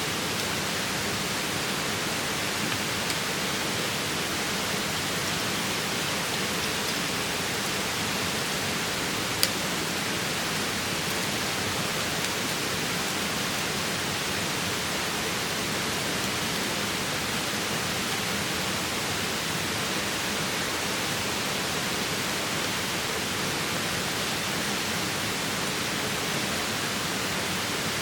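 Steady rushing of flowing water, an even hiss with no rhythm, and a single sharp tick about nine seconds in.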